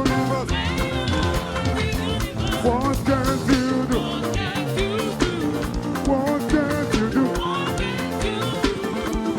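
Live praise-and-worship band music: a drum kit keeps a steady beat under instruments and singing voices.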